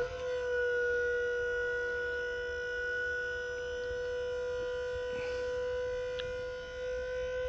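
Electric-hydraulic pump of a dump body's hoist running with a steady high whine as it works the bed. It switches on with a quick rise in pitch, then holds steady.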